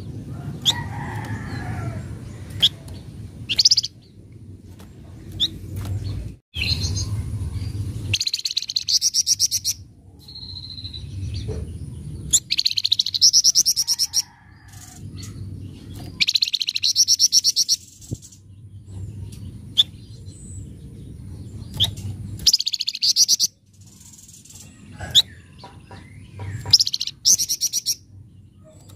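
Flamboyan songbird giving harsh, rapid chattering calls. Bursts of fast repeated high notes, each one to two seconds long, come every few seconds, with single sharp chirps between them.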